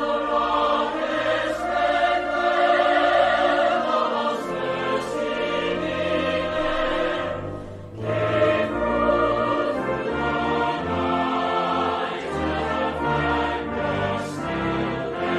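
Choral singing with orchestral accompaniment, in long held phrases, with a short break between phrases about eight seconds in.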